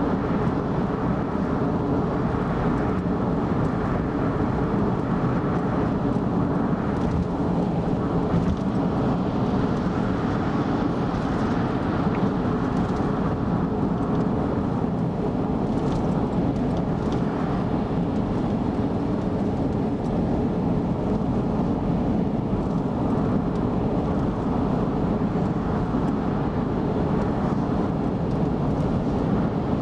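Steady road noise of a car driving at speed on an expressway: an even rumble of tyres and engine that holds constant.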